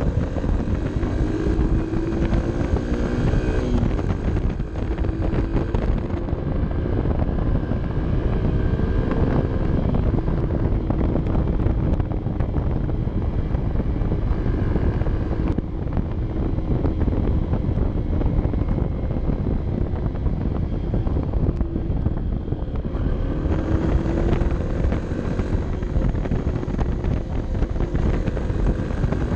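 Honda CB 125 F's air-cooled single-cylinder four-stroke engine running under way, heard from onboard, its pitch rising and falling with the throttle. It climbs near the start and again late on, over heavy wind rumble on the camera microphone.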